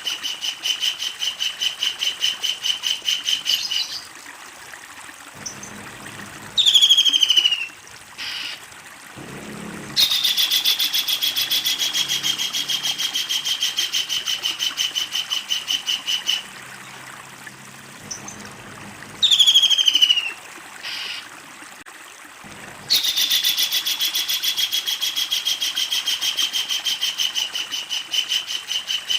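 Kingfisher giving long runs of rapid repeated chattering notes, a long loud 'ngekek' series. Twice, in the pauses between the runs, it gives a loud, short, falling call.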